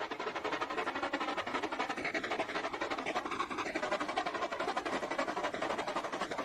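A train running on the rails: a steady, fast mechanical rattle and clatter.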